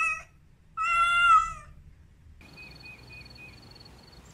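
Domestic cat meowing: the end of one meow right at the start, then a second full meow about a second in. Faint, high, evenly repeated chirps follow after the meows.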